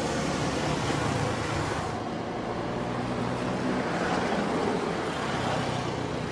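Road traffic: vehicles running by in a steady rumble, with wind hiss on the microphone during the first two seconds.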